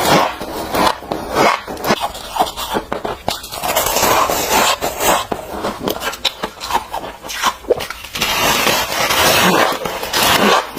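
Close-miked biting and chewing of freezer frost chunks: a dense run of irregular, crisp crunches.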